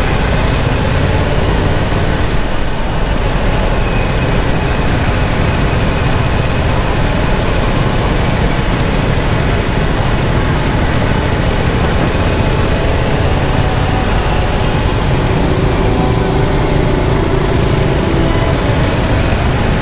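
Yamaha YZF-R7's 689 cc parallel-twin engine running at a steady speed while the bike is ridden, mixed with a constant rush of wind and road noise and no revving.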